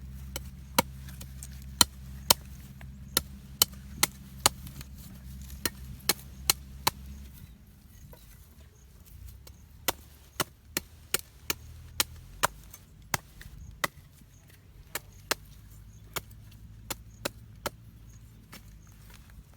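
Repeated sharp chopping strikes in two runs of quick, irregular blows, with a pause of a couple of seconds between them.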